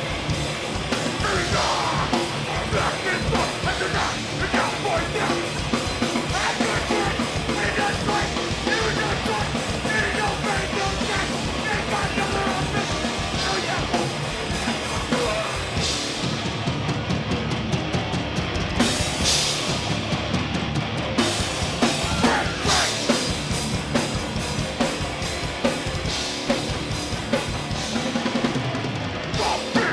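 Live hardcore punk band playing a fast, loud song, with a pounding drum kit.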